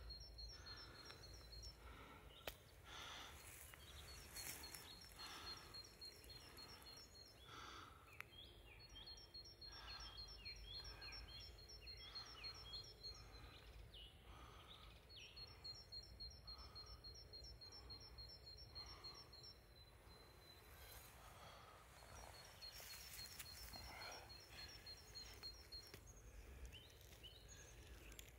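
Faint woodland birdsong: a bird repeating a rapid series of high notes in trains several seconds long, with a few other chirps, over soft rustling through leaf litter.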